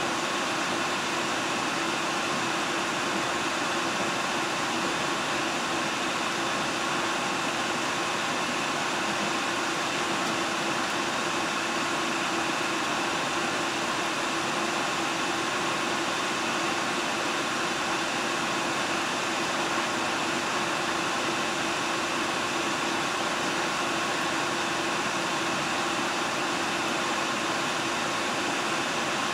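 Steady running noise of a diesel train on the JR Nemuro Main Line heard from inside the car: an even rush with a few held tones through it and no distinct rail-joint clicks.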